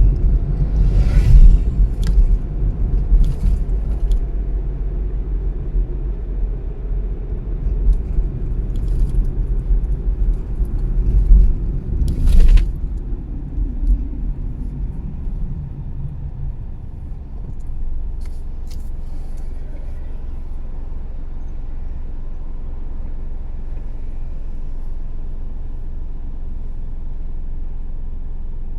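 Car driving on city streets: a low road and engine rumble with a few scattered knocks in the first half. About two-thirds of the way through it settles into a steadier, slightly quieter hum.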